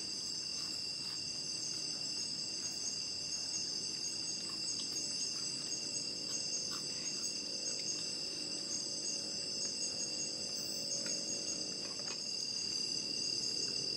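Steady chorus of forest insects: a continuous high shrill at several pitches at once, with a few faint clicks.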